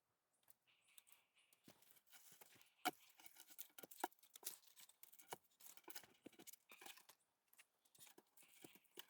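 Faint, irregular rustling with small cracks and snaps of twigs and forest litter, the sharpest crack about three seconds in.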